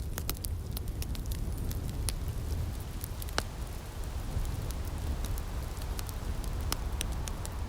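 Outdoor wood fire crackling, with irregular sharp pops and snaps over a low steady rumble.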